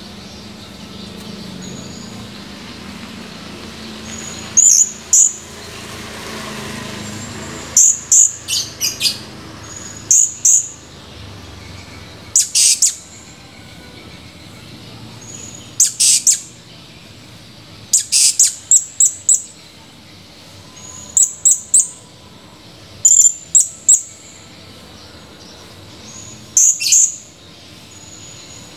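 Blue-crowned hanging parrot (serindit) calling: sharp, very high-pitched chirps, single or in quick runs of two to four, every two to three seconds.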